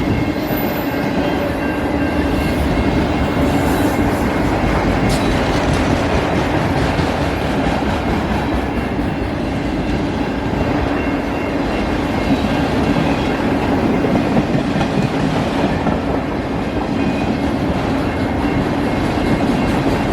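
Freight train of autorack cars rolling steadily past, a continuous rumble of steel wheels on rail with repeated clickety-clack over the rail joints and a faint high wheel squeal.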